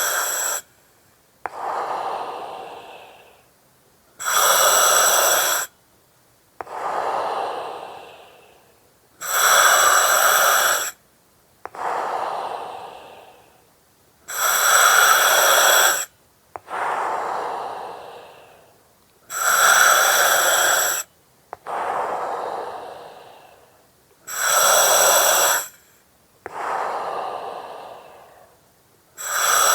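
Slow, steady breathing through an oxygen mask: a loud hiss through the mask with a ringing, whistly edge alternates with a softer breath that fades away, about one full breath every five seconds.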